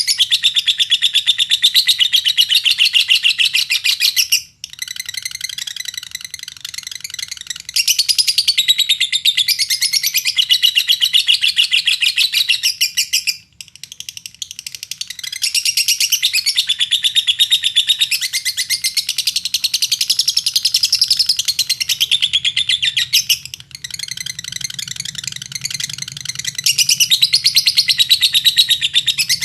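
Lovebird singing a long, rapid, unbroken chattering trill. The trill comes in long strings broken by short pauses about 4, 13 and 23 seconds in.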